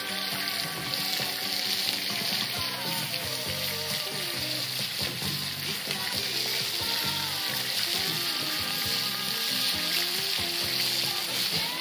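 Chicken sausages sizzling steadily in hot oil in a large pan over a wood fire as potato chunks are added, with background music underneath.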